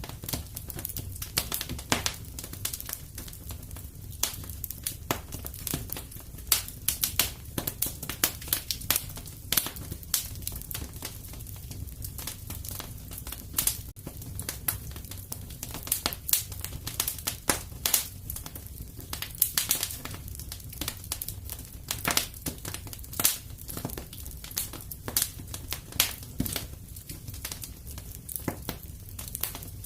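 Fireplace fire crackling, with frequent irregular pops and snaps over a steady low rumble.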